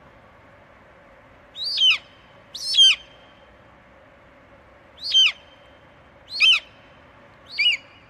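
A bird calling loudly: five short calls, each sliding down in pitch, spaced one to two seconds apart.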